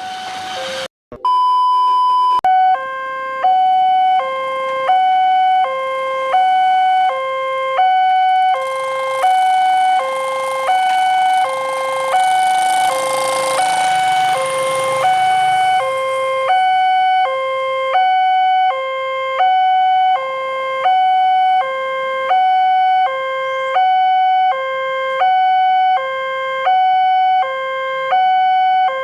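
Electronic level-crossing warning alarm sounding a two-tone alternating signal, high and low notes switching about every three-quarters of a second. It warns that a train is approaching. Around the middle a rushing noise swells and fades under it.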